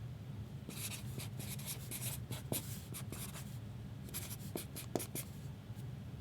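Scratchy rustling of packaging being handled, in a quick series of short strokes with a couple of sharp clicks, stopping about a second before the end.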